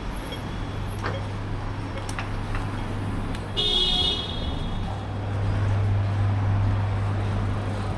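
City street traffic with a steady low engine hum, and a single short vehicle horn honk about three and a half seconds in.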